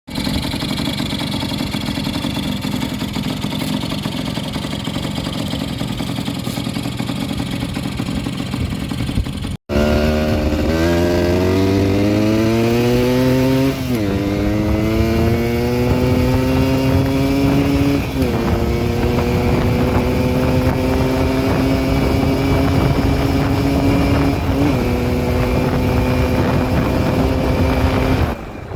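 Yamaha DT100 two-stroke single-cylinder motorcycle engine running steadily, then, after a cut about ten seconds in, pulling through the gears. The pitch climbs in each gear and drops sharply at three upshifts.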